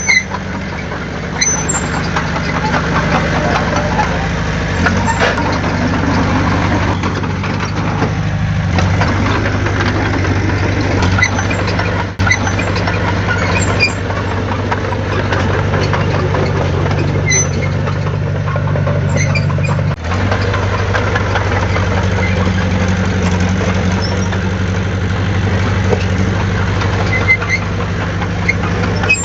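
Heavy diesel engine of earthmoving equipment running steadily, its pitch shifting a few times as the load or throttle changes, with brief dips about twelve and twenty seconds in.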